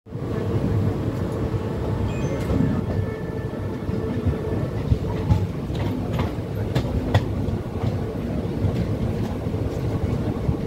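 A train running along the track, heard from on board: a steady, dense rumble from the wheels and carriages, with scattered sharp clicks and knocks from the wheels on the rails.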